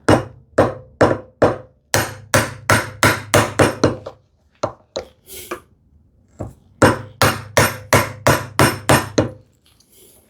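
Mallet striking a bevel-edge chisel to chop a mortise in a wooden leg, sharp wooden knocks at about two to three a second. There are two runs of blows with a short pause between them.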